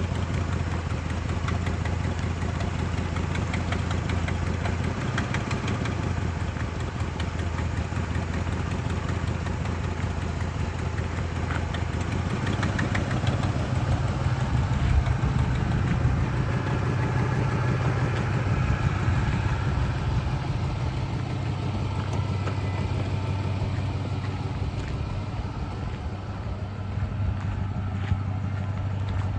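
2007 Ford F-150 pickup's engine idling steadily; its note steps up to a faster idle about twelve seconds in and settles back near the end.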